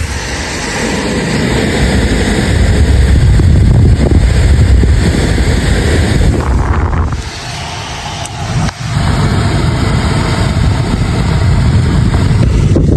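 A car being driven slowly, its running and tyre noise mixed with heavy wind buffeting the microphone. The noise drops briefly about seven and again about nine seconds in.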